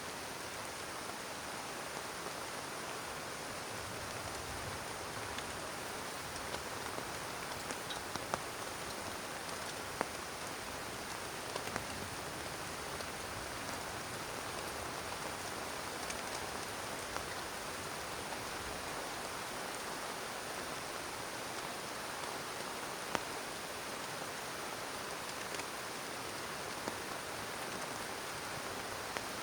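Heavy rain falling steadily, with scattered sharper drop hits breaking through the steady wash of noise.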